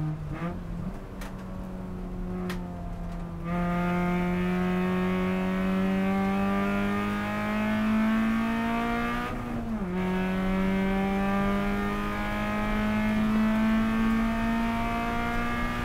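Honda Civic race car's four-cylinder engine heard from inside the cabin, with a few sharp clicks in the first seconds, then pulling under full throttle with its pitch climbing steadily. It drops for an upshift a little past halfway and climbs again.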